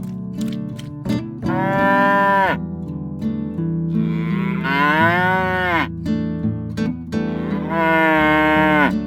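Cow mooing: three long moos, each falling in pitch at the end, over light background music.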